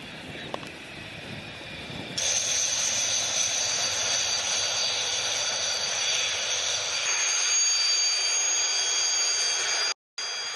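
Su-25 jet engines running with a steady rushing noise and a high-pitched turbine whine, which gets much louder about two seconds in. The sound cuts out briefly near the end.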